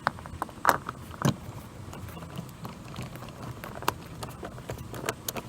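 Scattered small clicks and taps, a few sharper than the rest, from screws and plastic trim pieces being handled and fitted into a car door panel.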